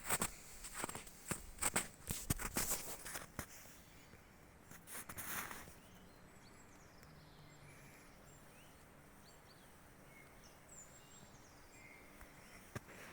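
Footsteps on a forest path for the first three or four seconds, then a brief rustle about five seconds in. After that it is quiet, with faint, short, high bird chirps and a single click near the end.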